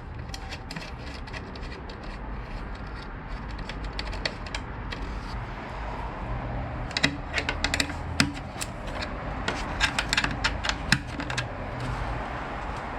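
Runs of quick ticking clicks from a hand socket ratchet backing out fairing bolts, busiest in two spells in the second half.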